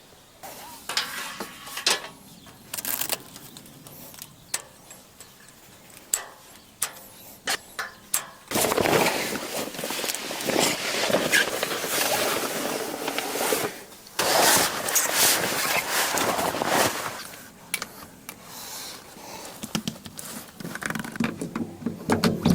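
Camping gear being handled while a camp bed is set up inside a tent: scattered clicks and knocks, with two spells of louder fabric rustling in the middle.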